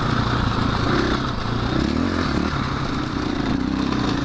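KTM 500 EXC-F single-cylinder four-stroke dirt bike engine running as the bike rides along a dirt road, its revs rising and falling with the throttle about a second or two in.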